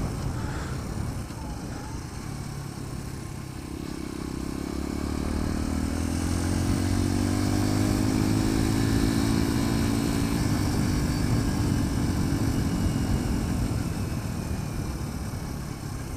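Sinnis Apache 125's 125 cc single-cylinder engine pulling, its pitch and loudness rising steadily for several seconds, holding, then falling away near the end, over a steady rush of wind noise.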